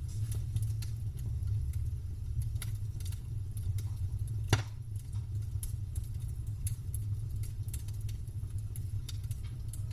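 Wood campfire crackling, with scattered sharp pops and one louder pop about halfway through, over a steady low rumble.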